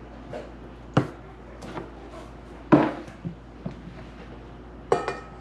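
A spoon knocking and tapping against a mixing bowl: about six separate knocks, the last near the end ringing briefly like a clink on a bowl.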